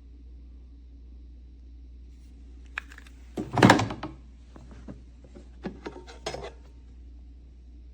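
Hard objects being handled: a knock, then a short, louder clatter about three and a half seconds in, followed by a run of light clicks and taps.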